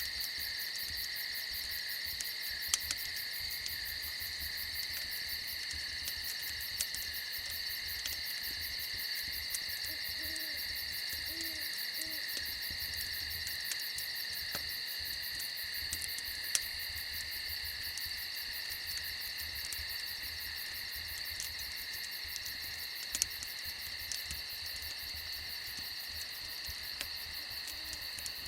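Night insect chorus of crickets trilling steadily and high, with three short owl hoots about ten to twelve seconds in and a few sharp isolated pops.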